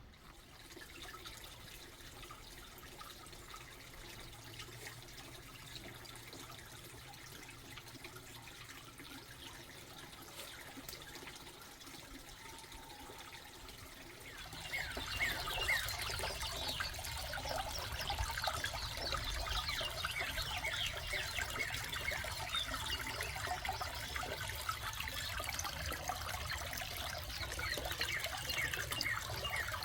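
Water trickling and splashing, quiet at first and then suddenly louder and busier about halfway through, with many small rapid splashes.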